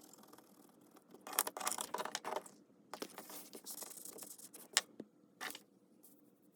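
Paper rustling and being handled in irregular bursts, with a sharp tap or click just before the five-second mark.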